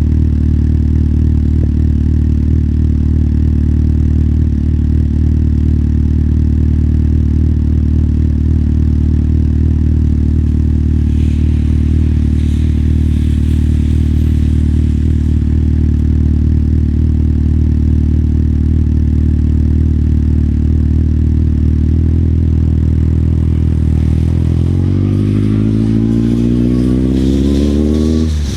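Motorcycle engine idling steadily, then revving up and rising in pitch as the bike pulls away over the last few seconds, with a short drop near the end as it shifts gear.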